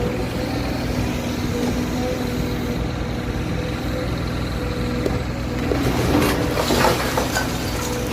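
A heavy engine running steadily with a constant hum, with a short stretch of clattering and crunching about six seconds in.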